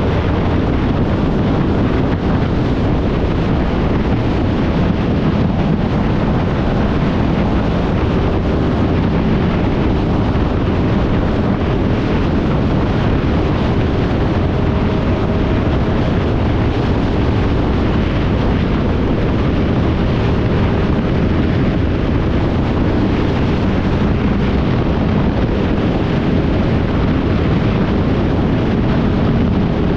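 Wind buffeting the microphone over a motorcycle engine on the move, running at a steady pace with a faint steady hum.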